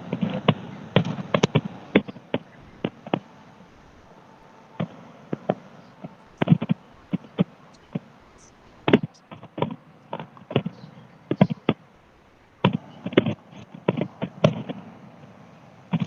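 Fireworks going off: irregular sharp bangs and pops in clusters, with a brief lull about four seconds in.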